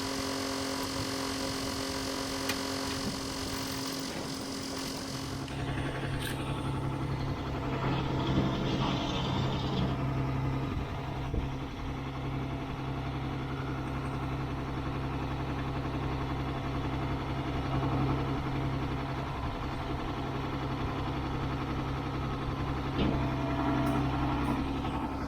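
DAF recovery truck's diesel engine running with the PTO engaged, driving the tilt-and-slide bed's hydraulics, with a steady mechanical hum. About five seconds in, the pitch of the hum changes and a deeper, louder hum sets in and holds.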